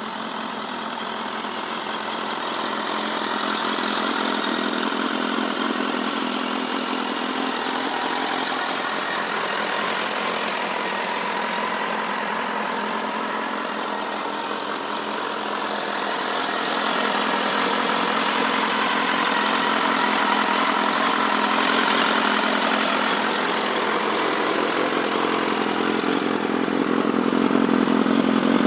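Suzuki GSF1200 Bandit's inline-four engine idling steadily through an aftermarket Remus exhaust can, getting gradually louder over the stretch.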